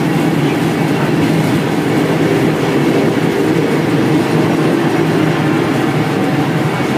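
State Railway of Thailand express train running steadily along the track, heard from on board: a continuous running noise with a low steady hum underneath.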